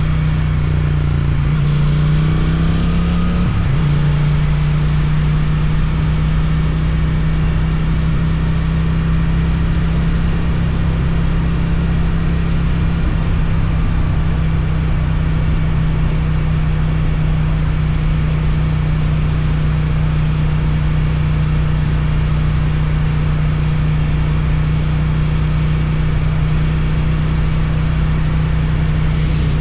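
Suzuki twin-cylinder motorcycle engine running through an Akrapovic exhaust. It revs up and shifts in the first few seconds, then holds a steady cruising note.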